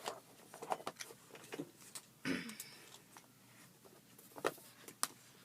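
Light, scattered clicks and taps of small plastic googly eyes being picked through and handled on a table, with a brief short vocal sound about two seconds in.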